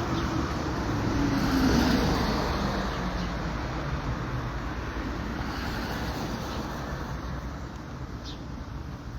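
Street traffic: a vehicle driving past, loudest about two seconds in with its pitch falling as it goes by, then fading into steady road noise.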